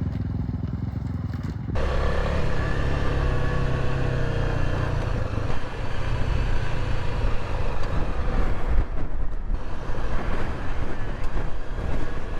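Motorcycle engine running, with wind and road noise on the rider's microphone. The sound changes abruptly about two seconds in.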